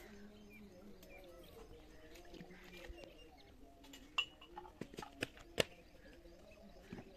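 Faint outdoor ambience with scattered bird chirps, and a few sharp clicks in the second half.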